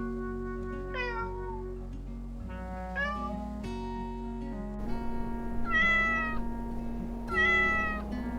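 A cat meowing four times over background acoustic guitar music: two short meows, the first falling and the second rising in pitch, then two longer, louder meows near the end.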